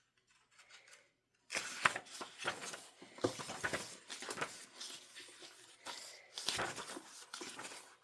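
Paper pages of a printed planner being leafed through: irregular rustling and crinkling with sharp little flaps as the pages turn, starting about a second and a half in.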